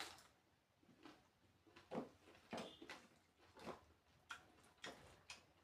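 Faint eating sounds: soft, irregular chewing clicks and mouth smacks, roughly one or two a second.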